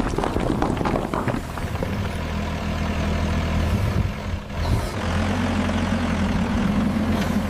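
Cartoon tractor engine sound effect running with a steady low hum, after a clattering stretch in the first second or so.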